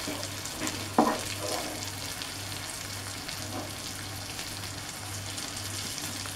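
Jackfruit-seed cutlets sizzling and crackling as they fry in hot oil in a pan, with one sharp click about a second in.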